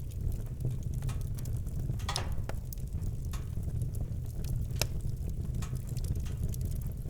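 Campfire burning with irregular wood crackles and pops over a steady low rumble.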